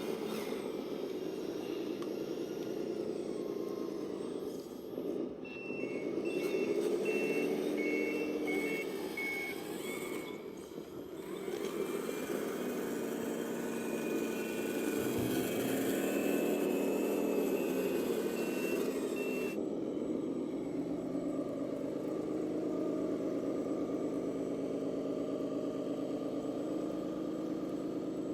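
Electronic sound module of an RC model truck or tractor playing a diesel engine sound that rises and falls in pitch, with a reversing beeper beeping in two stretches, around 6 to 10 seconds in and again around 15 to 19 seconds in.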